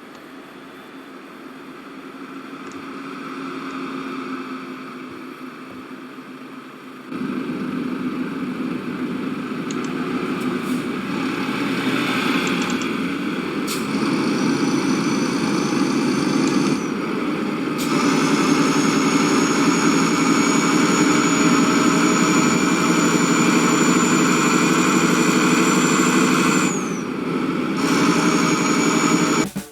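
An engine running steadily under a rushing noise, in several abrupt segments that get louder from about seven seconds in. A thin high whine joins it in the second half.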